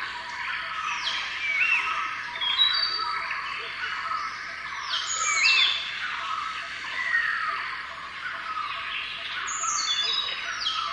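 Several birds chirping and calling at once: a dense, continuous run of quick sweeping and hooked notes with no pause.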